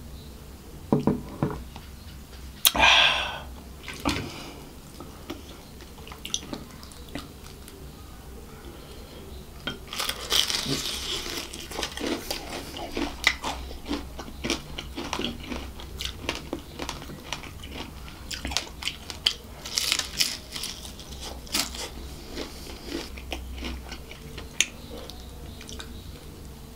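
Close-miked eating of KFC crispy fried chicken: from about ten seconds in, dense crackly crunching and chewing of the fried coating, thinning out near the end. A couple of louder sounds from drinking cider out of a glass come near the start.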